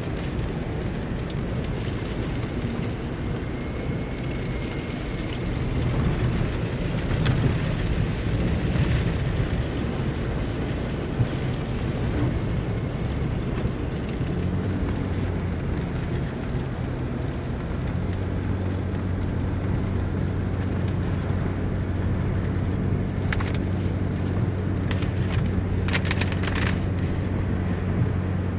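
Car driving on a wet road in rain: steady tyre and road noise with rain on the car. A steady low hum comes in about halfway, and a few short clicks come near the end.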